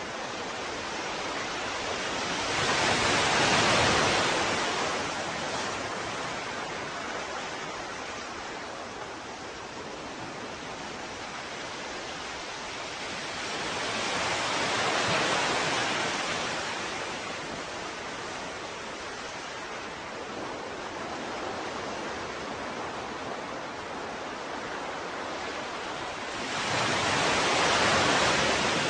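Ocean waves breaking and washing on the shore, a steady hiss of surf that swells three times as waves come in, about 4, 15 and 28 seconds in.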